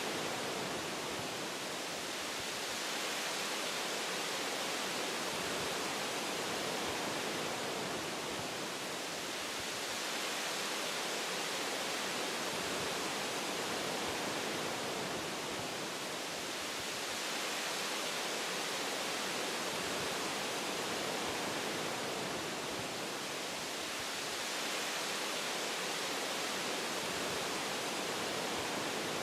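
Wind blowing through forest tree branches: a steady, even rushing hiss that gently swells and eases every several seconds.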